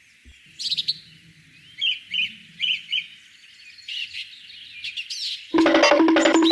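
Birds chirping in short, separate high calls over a faint low hum. About five and a half seconds in, music starts abruptly and becomes the loudest sound.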